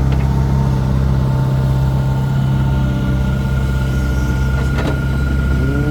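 Heavy diesel engine of earthmoving machinery running steadily: a constant low hum with a thin, steady high whine above it.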